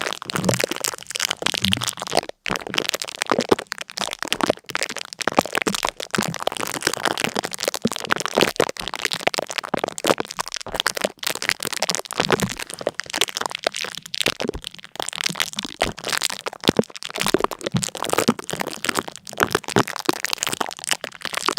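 Dense, continuous crackling: many small sharp cracks and pops in quick irregular succession, without letup.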